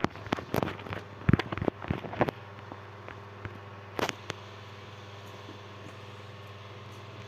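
A quick run of sharp clicks or taps in the first two seconds and one more about four seconds in, over a steady low hum.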